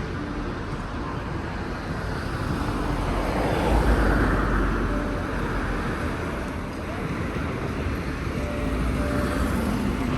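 Busy city street ambience: a steady wash of traffic noise and crowd hubbub, swelling louder about four seconds in.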